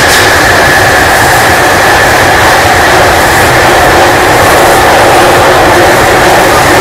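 London Underground 1996 Stock train running steadily: a loud, unbroken rumble and rush with a steady high whine over it.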